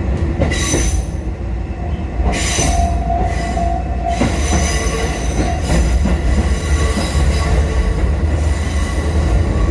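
Four-car Kotoden 1080/1100-series electric train running on the rails with a steady low rumble. Brief high screeches come twice in the first three seconds, then a held squeal before four seconds in, typical of wheels squealing on curved track.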